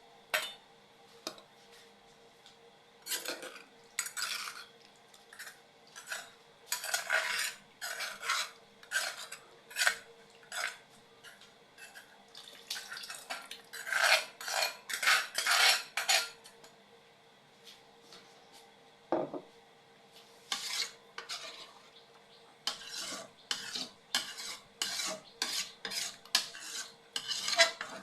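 A metal spoon or ladle stirring and scraping in a cooking pot, in irregular strokes with busier runs of quick scrapes, as ingredients for a bamboo-shoot curry are stirred together.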